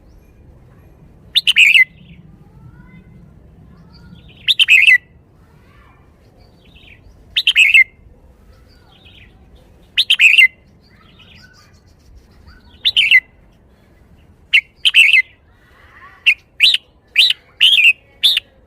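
Red-whiskered bulbul singing short, loud phrases about every three seconds, then a quicker run of notes near the end, in the song style its keeper calls "shaking the bottle".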